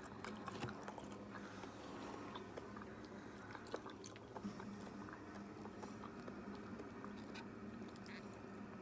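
Quiet eating sounds: chewing, and plastic fork and spoon scraping and clicking in a takeout container with scattered light clicks, over a faint steady low hum.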